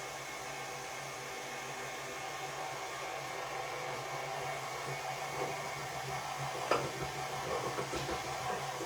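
Electric stand mixer running steadily as it mixes, a constant motor hum, with one sharp click about two-thirds of the way through.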